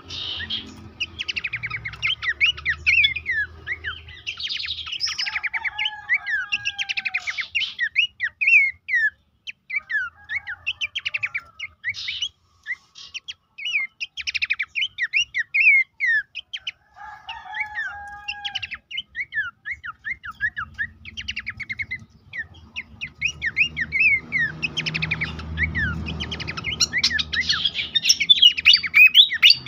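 Pelanduk semak (a small babbler) singing: fast runs of high, downward-sweeping chirps in chattering phrases, with a couple of lower drawn-out whistled notes. A low rumble sits under the song, strongest near the end.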